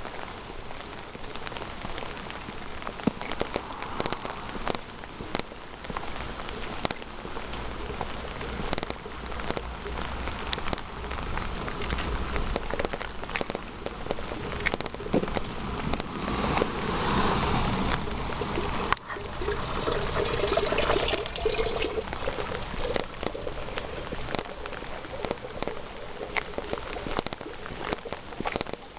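Steady rain falling, with many close drops pattering. A louder rush of noise swells up a little past halfway and fades a few seconds later.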